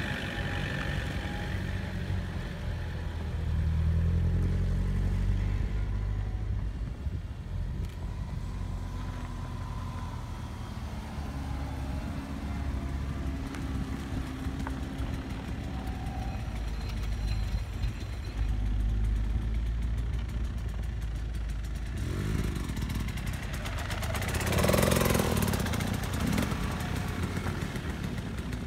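Subaru boxer engine running at low revs as a car works over off-road terrain, its pitch shifting. About three-quarters of the way in, an engine revs up louder with added tyre and terrain noise, then falls back.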